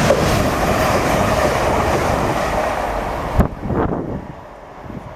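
Train passing along the track: a loud, steady rush of wheel and air noise. It cuts off abruptly about three and a half seconds in, leaving a much quieter background with a few faint knocks.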